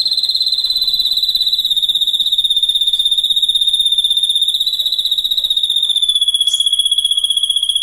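A continuous high, rapidly pulsing insect-like trill, held without a break and sliding gently lower in pitch.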